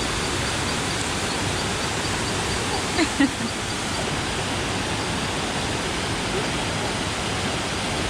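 Mountain river rushing steadily over its bed, with one brief short sound about three seconds in.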